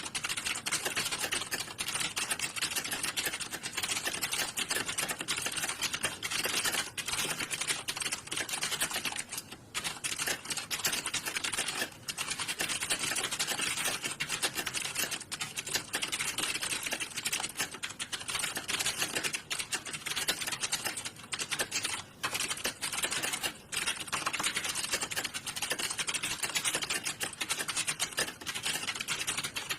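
Many computer keyboards typed on at once during a typing test, a dense, continuous clatter of overlapping key clicks with a few brief lulls.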